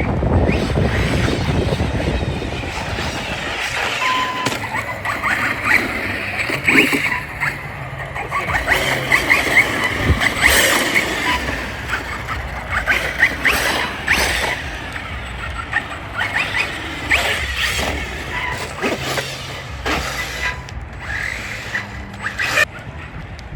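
Radio-controlled model cars running, with repeated high squeals and sharp clicks that come and go.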